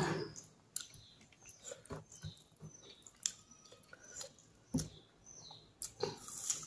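Close-miked mouth noises of someone eating rice and fish curry by hand: irregular wet chewing clicks and lip smacks, with a louder breathy noise about six seconds in.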